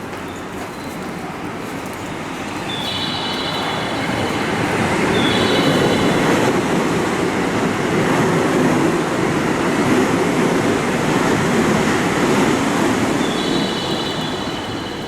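Electric commuter train running along the platform, its wheel and motor noise building over the first few seconds, holding loud through the middle and easing off near the end. Short high steady beeps sound over it at intervals of a few seconds.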